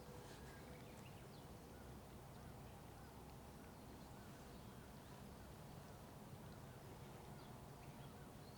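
Faint bird calls, a run of small, short, repeated calls with a few higher chirps, over a low, steady rumble of distant traffic.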